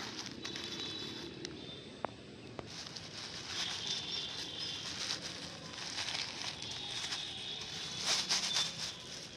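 Plastic rustling and crinkling as garbage is packed into a plastic bag and the bag is closed. There are a couple of sharp clicks about two seconds in and a louder burst of rustling near the end.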